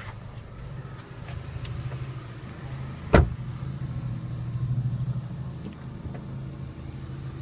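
Steady low hum of a car engine idling, with a single sharp thump about three seconds in.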